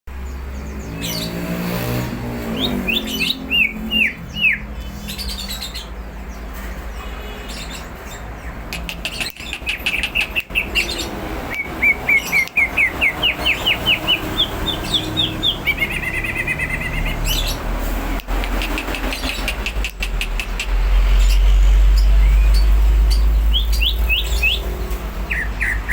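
Caged green leafbird (cucak ijo) singing energetically: series of quick, sharp downward-slurred whistles and fast repeated chirps. A steady low hum runs underneath and grows louder for several seconds in the second half.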